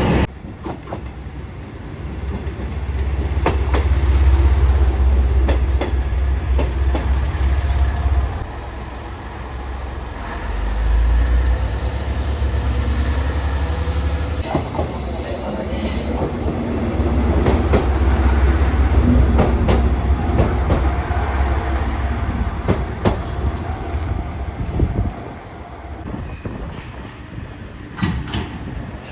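JR Shikoku 1500 series diesel railcar running on the line: a deep rumble that swells and fades, sharp clicks of the wheels over rail joints, and wheel squeal. A steady high-pitched flange squeal sets in near the end.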